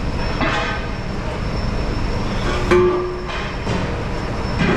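Steady low rumble of heavy-vehicle engine and road noise, with a brief steady tone about two and a half seconds in.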